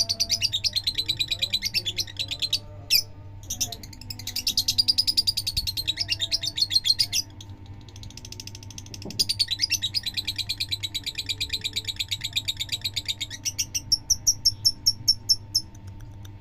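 Lovebird in its long 'ngekek' chatter: a rapid, unbroken string of high chirping notes in long bouts, with a pause partway through, then slowing into a few spaced chirps near the end.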